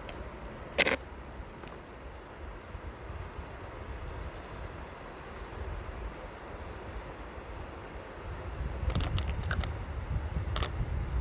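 Steady rush of the Seomjin River's flowing water, with wind rumbling on the microphone that grows stronger over the last few seconds. A single sharp click about a second in and several clicks near the end.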